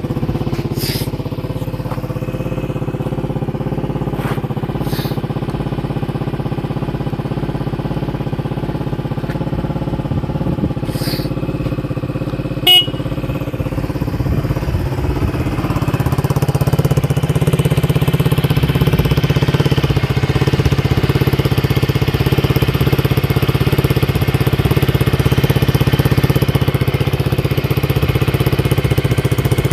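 Suzuki Skywave 250S scooter's single-cylinder four-stroke engine idling steadily just after being started, with a sharp click about thirteen seconds in. From about sixteen seconds the idle gets fuller and louder.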